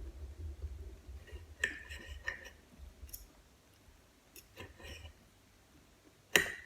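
Eating tomato and mozzarella: chewing with a series of sharp clicks and taps, the loudest tap near the end.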